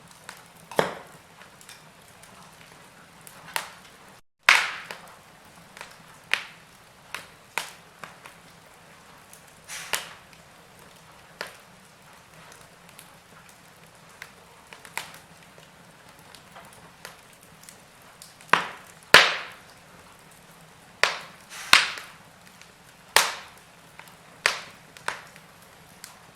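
Wood fire in a fireplace crackling: irregular sharp pops and snaps of varying loudness over a soft steady hiss, with the loudest pops coming in the second half. The sound cuts out for an instant about four seconds in.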